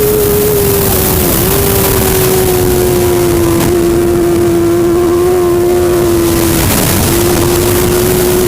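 Superbike engine running at high, steady revs, its note breaking briefly twice, over a loud rushing noise.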